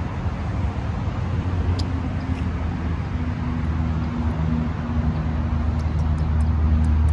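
A car engine running: a steady low hum that grows somewhat louder toward the end, with a few faint ticks.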